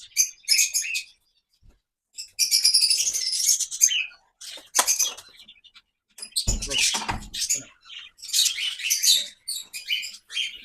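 Aviary birds chirping and chattering in dense high-pitched bursts, with short quiet gaps between them. About six and a half seconds in, there is a low thump.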